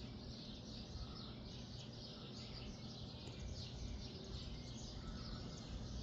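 Many small birds chirping, a dense run of short, falling high notes, over a low, steady background rumble.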